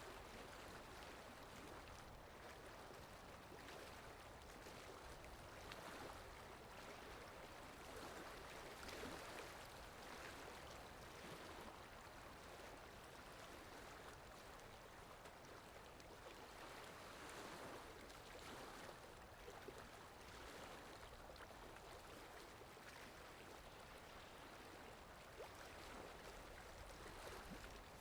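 Faint, steady rush of flowing water, like a stream, swelling gently now and then: a looped water ambience sound effect.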